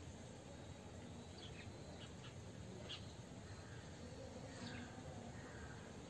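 Faint, short, high bird chirps, a handful scattered across a few seconds, over a steady background hiss.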